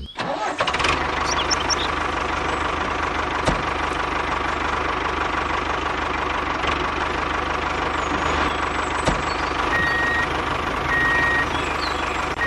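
Small electric motor of a DIY model tractor running steadily, a whirring rattle with a constant whine. Three short beeps sound about a second apart near the end.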